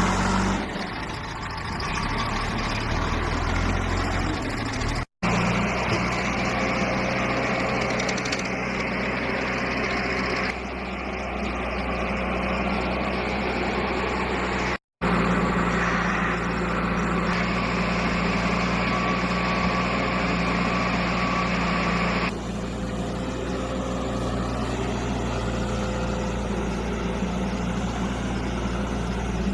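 Heavy diesel machinery engine running steadily. The sound drops out abruptly twice and changes suddenly several times where separate clips are joined.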